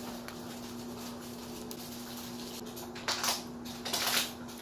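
Chewing a mouthful of nachos close to the microphone, with two short crunchy bursts about three and four seconds in, over a steady low hum.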